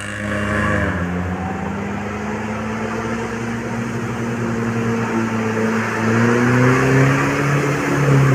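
UAZ off-road vehicle's engine running under load. The pitch drops briefly at the start, then climbs slowly as it revs up, growing louder about six seconds in.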